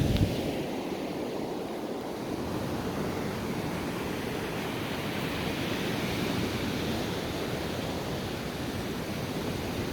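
Ocean surf breaking on a beach: a steady wash of wave noise, with a short thump right at the start.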